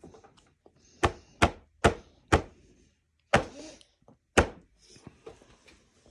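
A child banging on a feeding tray: six sharp, irregular knocks over about three and a half seconds.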